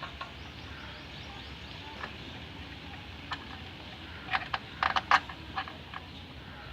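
Scattered metallic clicks and clinks of hand tools and bolts during gearbox work, with a quick run of louder clinks about four to five seconds in.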